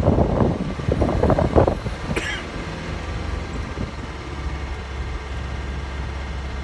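A car driven slowly, heard as a steady low engine and road hum. It opens with about two seconds of irregular noise, and there is a single sharp click a little after two seconds in.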